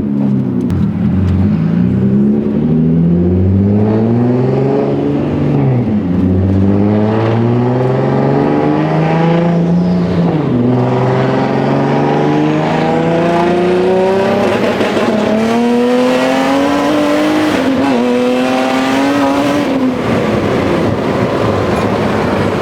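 2003 Nissan 350Z's built V6 with a big 88 mm single turbo, pulling hard through the gears. The engine note climbs in each gear and drops sharply at upshifts about six and ten seconds in, then rises slowly through a long pull that eases off near the end.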